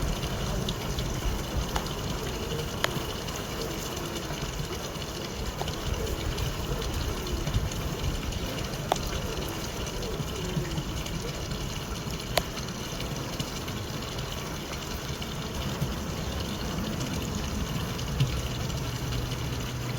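Continuous buzzing of a busy honeybee colony in a Layens hive, with individual bees now and then flying close past the microphone as brief wavering buzzes.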